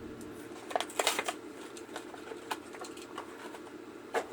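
Crinkling and clicking of a plastic blister pack being handled and opened, with a cluster of crackles about a second in and a few single sharp clicks after.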